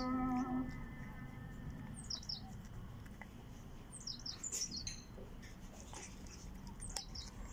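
Small birds chirping: three short bursts of quick, high, falling chirps a couple of seconds apart, over a low outdoor rumble. A held pitched tone stops about half a second in.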